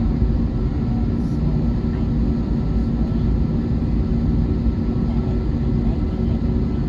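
Steady cabin noise inside an Airbus A321neo with its jet engines running: an even rush with a constant low hum.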